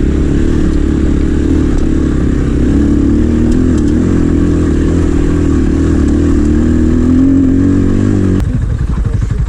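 250 cc motorcycle engine running at steady revs under way, its pitch creeping up slightly, then dropping abruptly to a lower, uneven note about eight seconds in.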